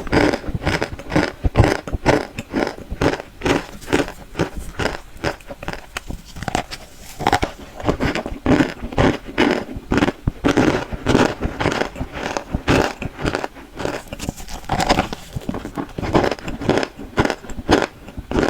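Close-miked crunching and chewing of cornstarch chunks: a steady run of crisp crunches, two to three a second.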